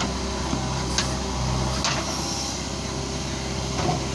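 Heavy diesel engine running steadily, with a few sharp metallic knocks, about one a second early on.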